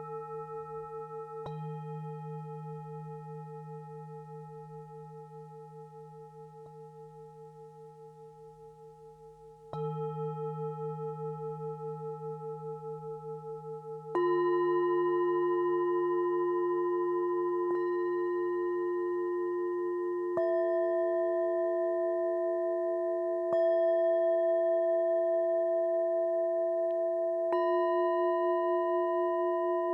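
Tibetan singing bowls struck one after another, each ringing on in a long, slowly fading tone with a pulsing waver. A deeper, louder bowl joins about halfway through, and further strikes follow every few seconds, so the tones overlap.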